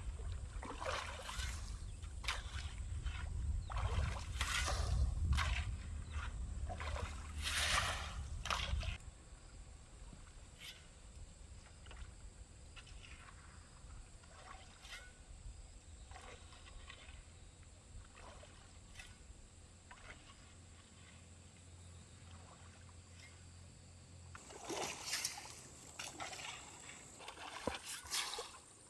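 Splashing and scraping in shallow stream water: a run of quick sloshing strokes with a low rumble for the first nine seconds, a quieter stretch of faint trickling and small knocks, then more splashing strokes near the end.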